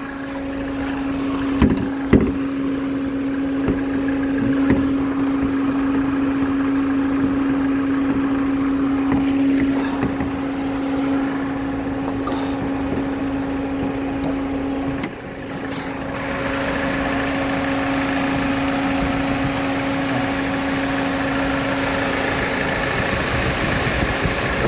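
Peugeot 207 CC engine idling steadily with the bonnet open, with two sharp clicks about two seconds in. About two-thirds of the way through there is a brief dip, after which the engine sound is fuller and hissier.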